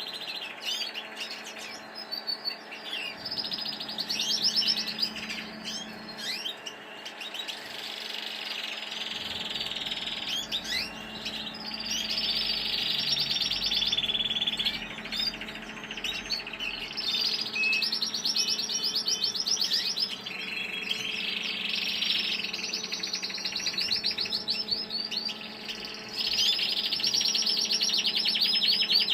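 Colour canaries singing: long runs of rapid trills and warbles in phrases of a few seconds, one after another, over a steady low hum.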